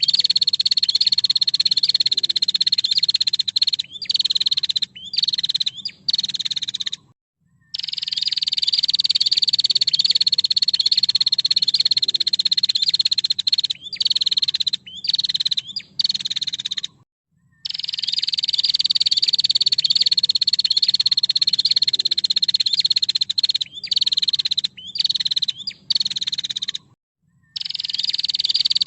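Female prinia (prenjak) calling: a long, fast buzzing trill that sinks slightly in pitch over about three seconds, then a few short broken pieces and a brief pause. The same phrase repeats about every ten seconds, three times over.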